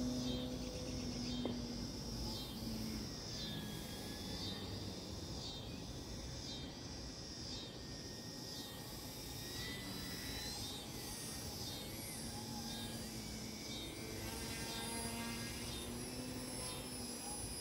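E-flite Eratix flat-foam RC plane's electric motor and propeller whining in the air, the pitch gliding up and down with throttle and passes. Insects call in a steady high pulse about once a second.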